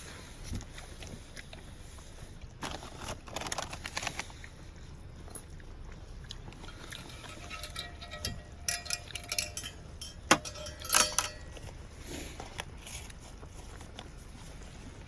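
Scattered clicks, knocks and rustling of cooking gear and packaging being handled, with a sharp click about ten seconds in, over a faint steady hiss.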